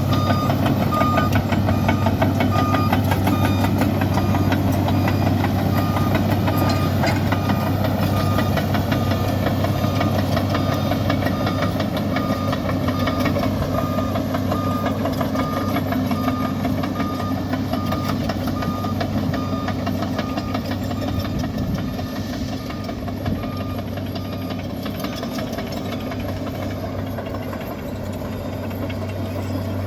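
Bulldozer's diesel engine running steadily at a low, even drone, growing slightly quieter toward the end. A reversing alarm beeps about twice a second over roughly the first ten seconds.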